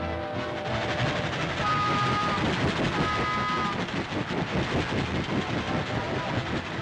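Cartoon sound effect of a train rushing past at speed: fast, even clatter of wheels over the rails, with two short high whistle tones about two and three seconds in.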